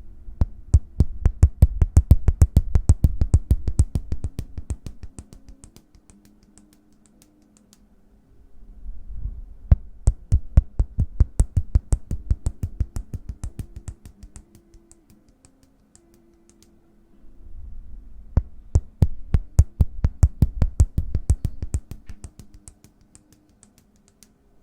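Hands tapping rapidly close to the microphone in three bouts of several seconds each: quick, sharp taps several a second with a deep thump beneath them.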